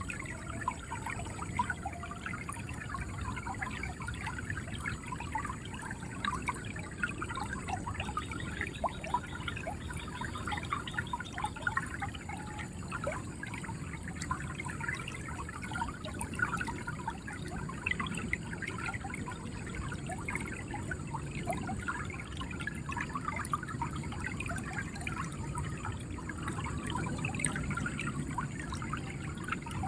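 River water flowing and gurgling: a steady low rush with many small, quick bubbling splashes throughout.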